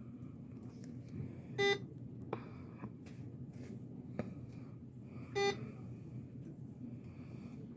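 Medical equipment's electronic beeper sounding two short pitched beeps, about four seconds apart, over a faint steady hum.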